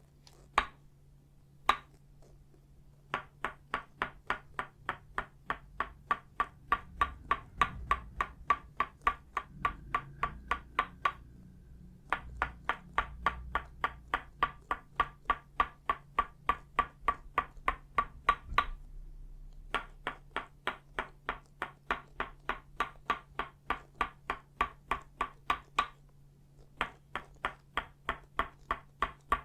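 Tok sen tapping: an itaúba wooden mallet striking a wooden peg in quick, even runs of about five taps a second, each tap with a short woody ring, the runs broken by pauses of about a second.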